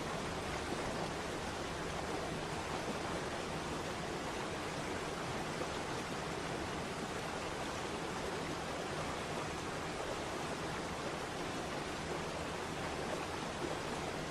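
Waterfall: steady rushing of falling water, even and unchanging.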